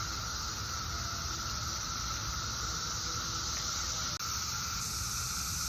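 Chorus of periodical cicadas: a steady, dense, shrill drone centred on one high pitch, with a momentary break about four seconds in.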